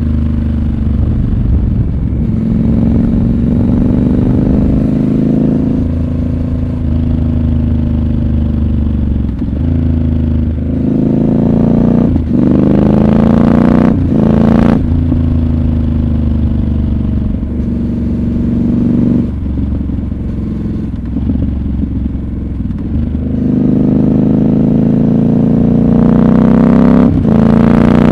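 Triumph Scrambler 1200 XC's 1200 cc parallel-twin engine pulling hard, its pitch rising under acceleration several times. There are short breaks in the sound at gear changes: two around the middle and one near the end.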